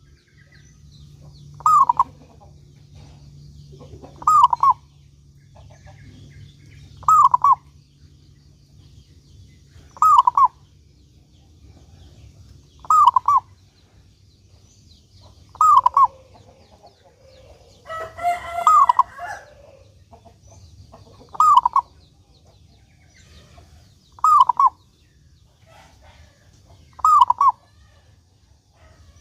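Perkutut (zebra dove) cooing its song phrase over and over, a short burst of notes about every three seconds. A longer, different call breaks in about two-thirds of the way through. A faint steady low hum runs underneath.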